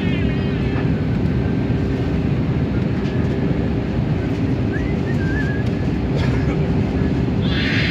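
Steady roar of an Airbus A320neo's passenger cabin, engine and airflow noise heard from a window seat, with a steady hum under it. A brief high wavering cry starts near the end.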